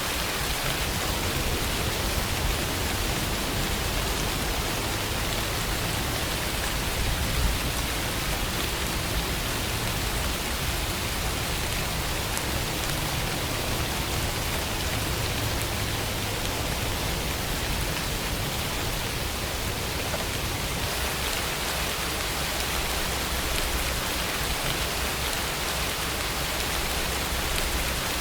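Steady rainfall, a continuous even hiss of rain on surfaces with a low rumble underneath.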